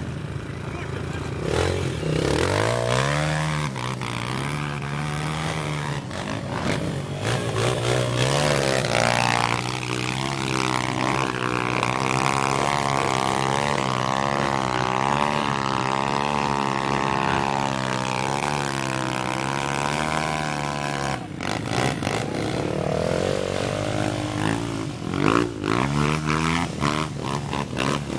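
Off-road motorcycle engine running under load, its pitch wavering up and down with the throttle. It cuts off suddenly about 21 seconds in, followed by shorter revs near the end.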